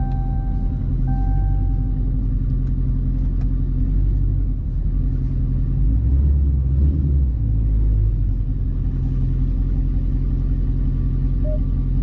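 Dodge Charger 392's 6.4-litre HEMI V8 running at idle, a deep steady rumble heard from inside the cabin, swelling louder for about a second around the middle.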